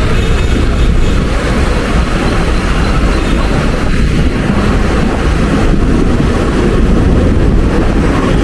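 Mumbai suburban local train running, heard from inside a carriage: a loud, steady rumble and rush of noise.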